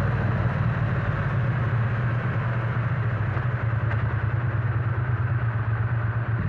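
Triumph Bonneville T100's parallel-twin engine running at steady low revs.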